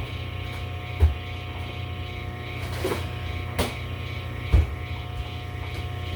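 Microwave oven running with a steady low hum, with three short thumps or knocks about a second in, a little past halfway, and again soon after.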